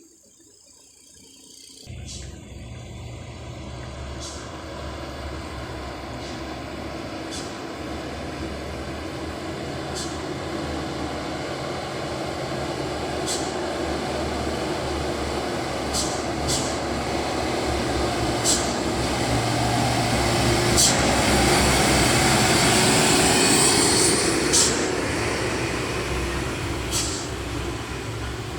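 Loaded dump truck's diesel engine running under load, growing louder to a peak about 21 to 24 seconds in and then easing off a little, with brief sharp clicks every second or two.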